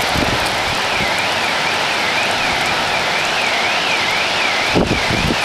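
Heavy rain falling steadily, a dense even hiss. Above it a faint electronic tone warbles up and down about twice a second, and low rumbling comes in near the end.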